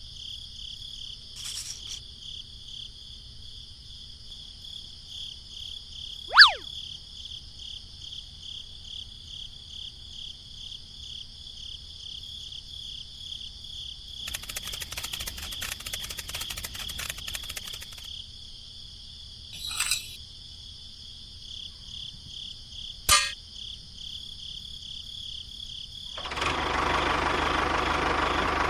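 Crickets chirping steadily, with a few sharp clicks and a short rasping stretch in the middle. Near the end an engine starts and runs steadily, louder than everything before it.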